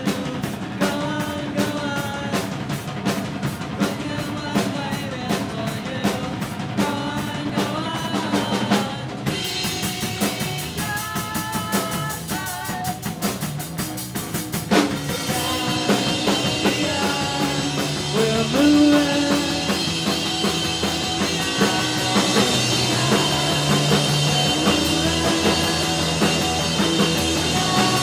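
Rock music with a drum kit, bass and guitar playing a steady beat; the arrangement changes about nine seconds in, with a sharp hit around fifteen seconds, and fills out after that.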